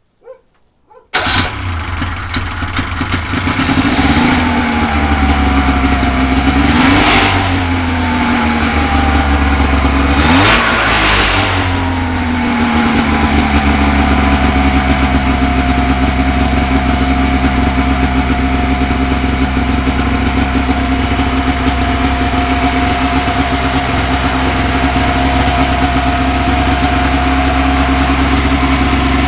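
Rotax 503 twin-cylinder two-stroke snowmobile engine starting about a second in, revved up sharply twice, then settling into a steady idle.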